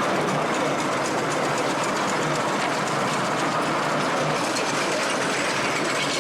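Miniature-railway steam train running on the track: a steady rush of noise with faint rhythmic clicking from the wheels.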